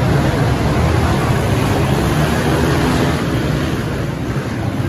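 Small four-stroke pit bike engines running, a steady low motor hum under a wash of noise.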